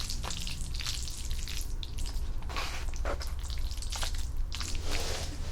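Close-miked wet eating sounds of spaghetti with meat sauce: irregular sticky clicks and squelches from the saucy noodles and the mouth, over a steady low hum.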